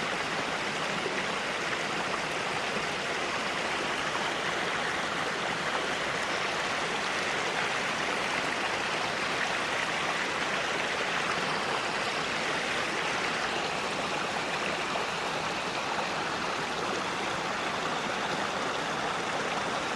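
Running stream water flowing steadily, an even rushing with no breaks.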